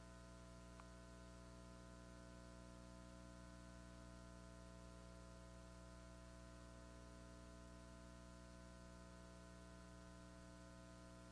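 Near silence: a faint, steady electrical hum with many even overtones under light hiss, and one tiny click about a second in.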